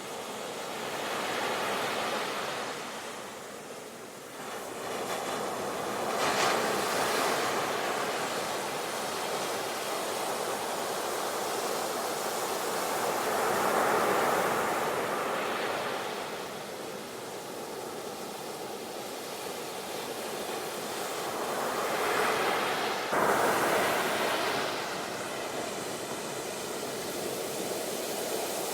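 Sea waves breaking and washing on a shore: the surf's hiss swells and fades in slow surges every several seconds, with a sudden louder break near the end.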